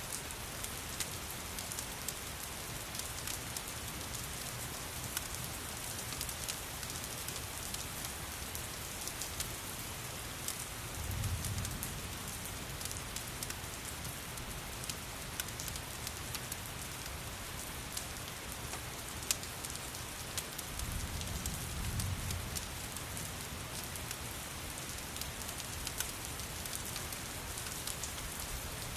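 Steady rain with many small sharp crackles and ticks through it, as of a fireplace crackling alongside the rain. A low rumble swells up twice, about eleven and twenty-two seconds in.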